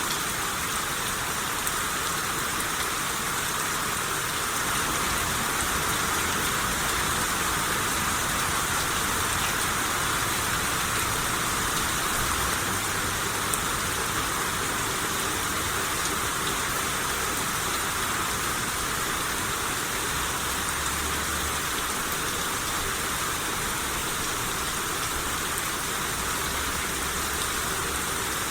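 Steady rain shower falling on surfaces, an even hiss of drops with a few single drops ticking out now and then.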